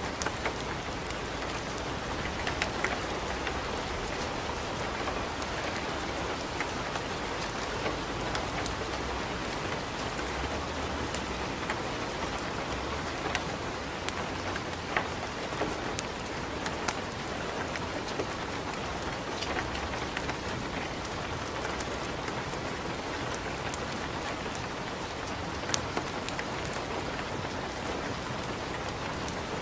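Steady rain falling, with scattered sharp clicks and pops through it.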